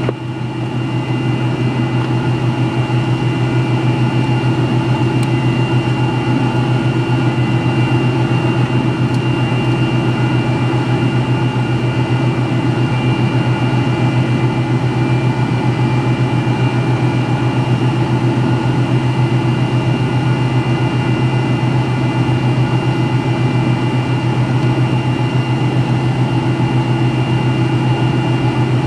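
Steady drone of a McDonnell Douglas MD-83's tail-mounted Pratt & Whitney JT8D jet engines, heard inside the cabin near the tail: a deep hum with several steady high whining tones over it, holding at an even power setting.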